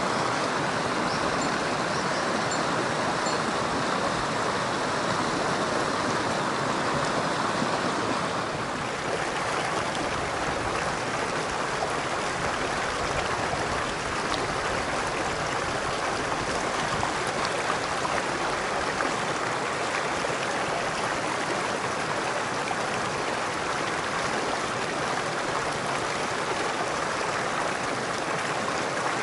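Mountain stream water rushing steadily, with a slight change in its sound about eight and a half seconds in.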